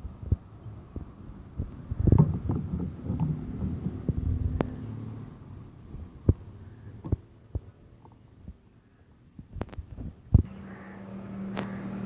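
Scattered metallic clicks and knocks of hand tools working the loose mounting nut of a motorcycle's turn-signal indicator. A steady engine hum starts near the end.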